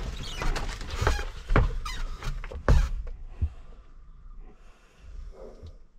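Plastic clicking, knocking and squeaking as a tractor's cab air filter and its cover are pried and worked loose, busiest in the first half, then quieter handling.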